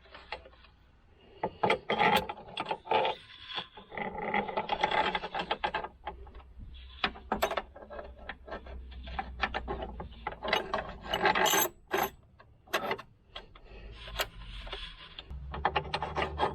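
A sheet-steel patch being test-fitted into a hole cut in a car body: irregular scraping and rubbing of metal on metal, broken by sharp clicks and knocks.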